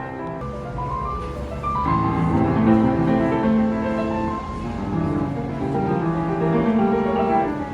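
Piano playing, a flowing passage of many notes that grows louder about two seconds in.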